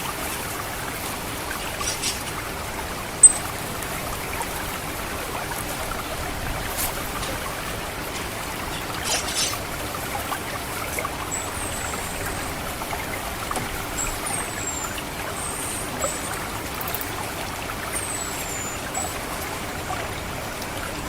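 Water trickling steadily through a rice paddy. About three seconds in comes one sharp click. In the second half, several short, thin, high-pitched notes fall in pitch, the orange-headed thrush's 'ngecit' call played as a lure.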